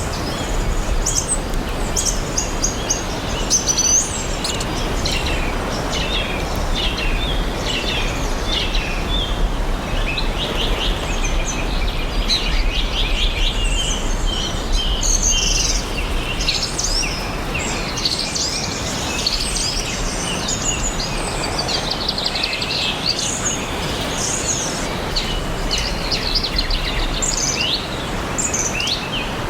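Several small forest birds chirping and singing at once, with rapid trills and short whistled notes overlapping throughout, over a steady outdoor background hiss.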